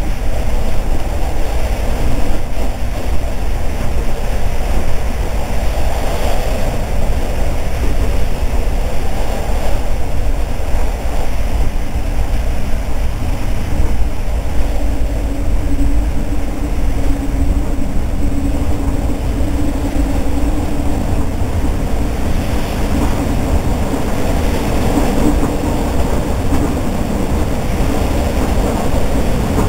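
Regional passenger train running at speed, heard from inside the carriage: a steady rumble of wheels on the rails. A faint low hum joins in around the middle.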